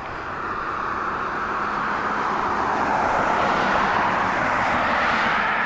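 A passing road vehicle: a steady rush of tyre and road noise that builds slowly and eases a little near the end.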